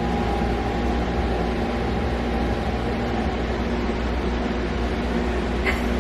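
Steady mechanical hum and hiss with a faint constant whine over it, and a light click near the end.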